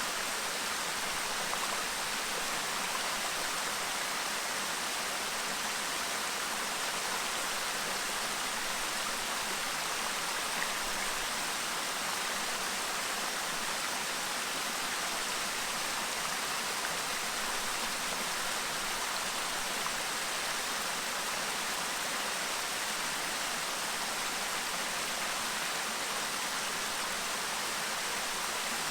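A clear stream babbling: a steady, unbroken rush of flowing water.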